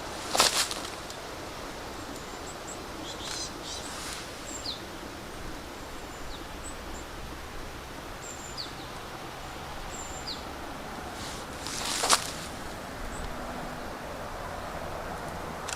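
Outdoor ambience: a steady background hiss with scattered short, high bird chirps sliding downward. Two brief, sharp, louder noises come through, one right at the start and one about twelve seconds in.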